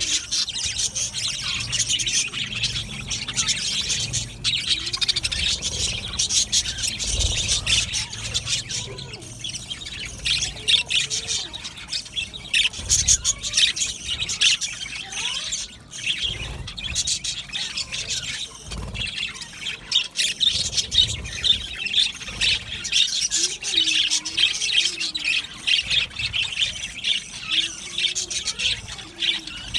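Many budgerigars chattering at once in a colony aviary: a dense, unbroken chorus of high chirps and warbles.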